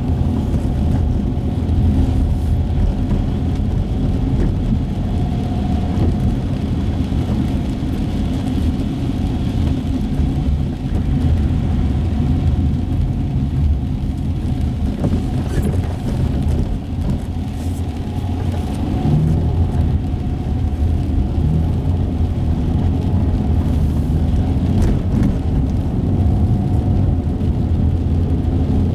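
Car driving on wet city streets, heard from inside the cabin: a steady low rumble of engine and tyres on the road.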